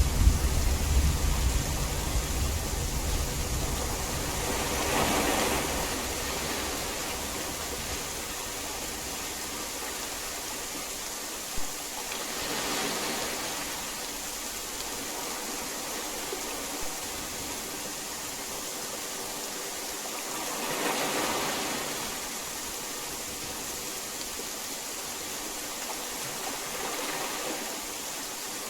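Steady heavy rain hiss. A low thunder rumble dies away in the first couple of seconds, and the rain noise swells briefly three times, about eight seconds apart.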